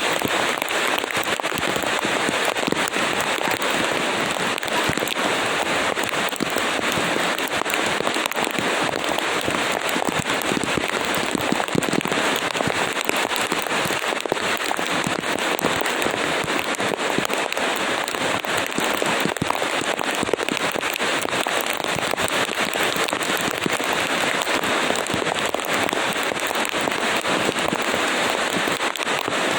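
Steady heavy rain: a dense, even hiss full of sharp, crackling drop impacts.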